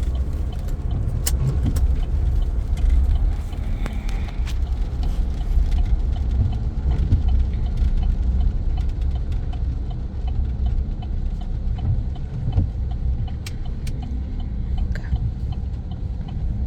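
Pickup truck driving along the road, heard from inside the cab: a steady low rumble of engine and tyres, with a few light clicks and rattles.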